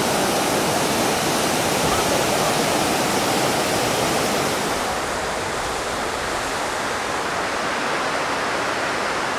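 Steady rush of falling water, an even, dense hiss with no pauses, a little less bright from about halfway through.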